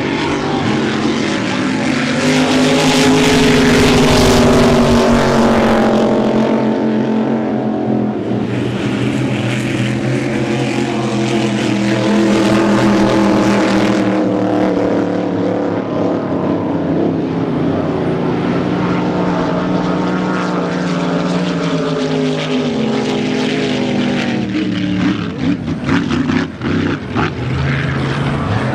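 Large engine running steadily for the whole stretch at a fairly low, slowly drifting pitch, a little louder in the first few seconds and dipping a few times near the end.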